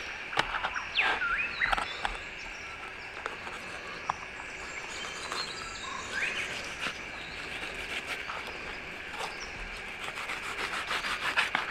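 Outdoor ambience of birds calling and a steady insect drone, with small clicks and scrapes of a fillet knife against a plastic cutting board as fish fillets are skinned. The clicks come more often near the end.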